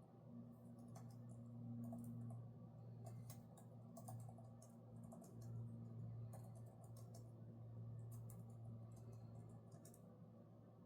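Faint typing on a computer keyboard: irregular clusters of light key clicks over a steady low hum.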